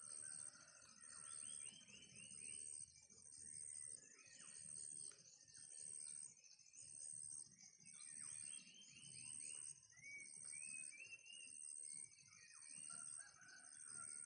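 Faint calls of free-range village chickens, in short runs of quick falling notes. Under them is a steady high-pitched trill that pulses about once a second.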